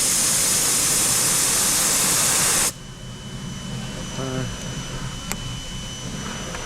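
Steady hiss of air blown onto a freshly made plastic weld to cool it, cutting off suddenly about three seconds in.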